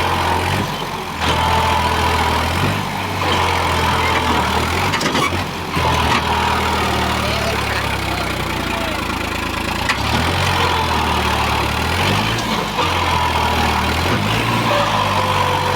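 New Holland 3630 tractor's diesel engine running steadily, its pitch shifting slightly now and then.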